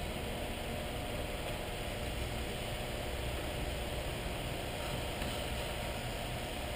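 A steady low hum with an even hiss throughout, with no distinct clicks or knocks.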